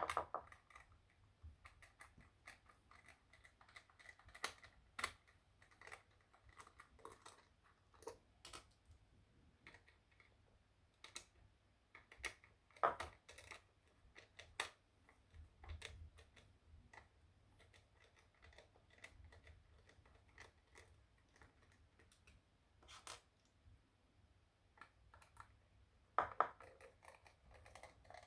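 Faint, irregular small clicks and scrapes of a screwdriver turning out the screws of a plastic security-camera housing.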